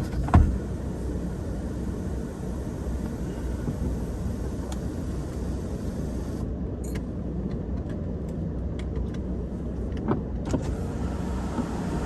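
Car interior noise while driving: a steady low rumble of engine and road, with a sharp knock about half a second in and a few faint clicks later.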